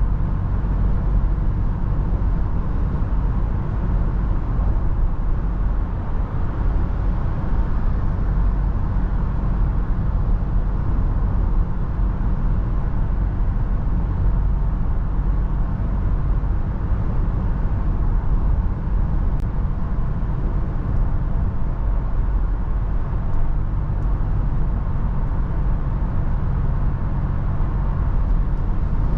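Steady low rumble of a Toyota FJ Cruiser being driven: engine, tyre and wind noise, heaviest in the low end, with no breaks.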